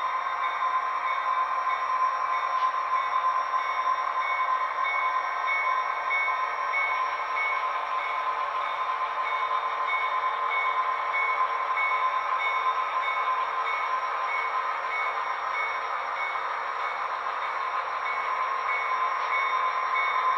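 A train running steadily: a constant whine with a pulsing tone about twice a second.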